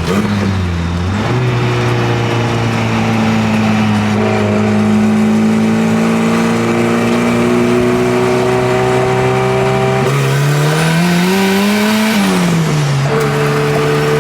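Turbocharged Nissan KA24 four-cylinder engine running under load on E85, its pitch climbing slowly and steadily. Near the end the revs rise sharply for about two seconds and then drop back.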